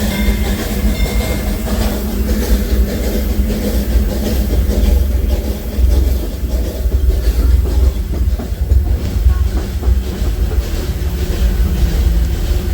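Disneyland Railroad narrow-gauge passenger train rolling along the track, heard from aboard: a steady low rumble with light clicks of the wheels over rail joints. A faint high wheel squeal fades out a second or so in.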